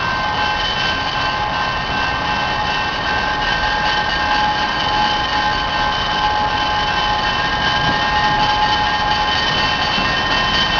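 Two CN diesel locomotives running as they back slowly toward their train: a steady engine rumble with a high whine held over it, growing slightly louder as they come closer.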